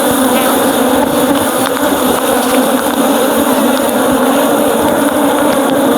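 Honeybees buzzing in large numbers around an opened hive, close to the microphone: a loud, steady hum. The density of the buzz is the sign of a very active colony.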